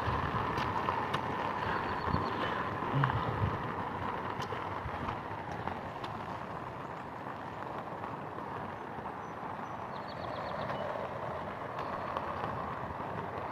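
A steady rushing noise, even throughout, with a few faint clicks and knocks scattered over it.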